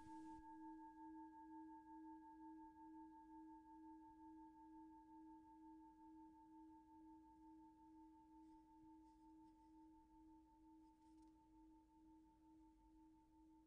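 Faint, fading ring of a single struck bell-like metal tone, several pitches sounding together with a slow pulsing wobble as it dies away.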